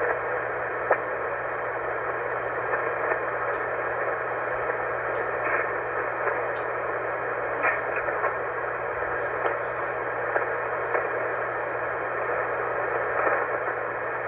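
HF amateur radio receiver tuned to a quiet 20-meter single-sideband voice frequency, putting out steady band hiss with a few brief static crackles and a low steady hum underneath: the open channel between transmissions.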